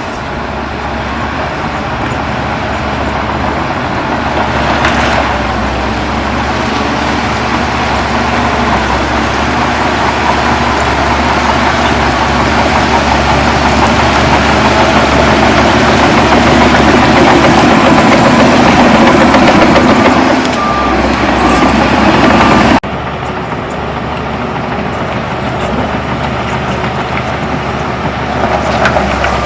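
Heavy diesel earthmoving machinery working, the engine noise building steadily in loudness. About 23 seconds in it drops abruptly to quieter, steady running.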